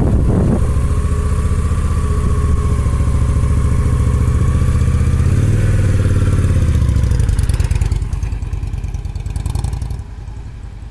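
Motorcycle engine running close at low revs. It rises briefly in pitch about five seconds in, then fades from about seven seconds on.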